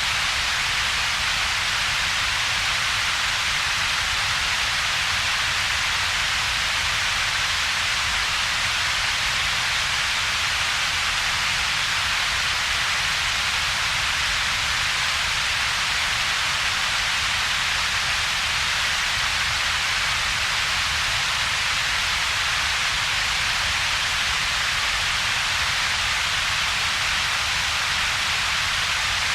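Synthetic double-peaked noise, steady and unchanging: a bright hiss centred around 2 to 5 kHz over a separate low rumble below about 200 Hz, with a gap in between.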